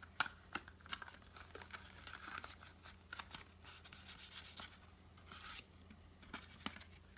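Paper booklets and packaging being handled: faint rustling and crinkling with scattered small clicks, and a slightly longer rustle near the end.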